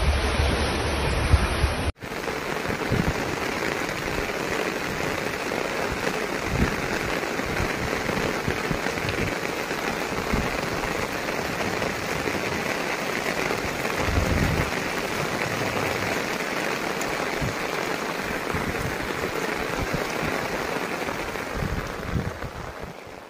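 For the first two seconds, floodwater rushes around a vehicle wading through a flooded road. After a sudden cut, steady heavy rain hisses, with scattered low thumps.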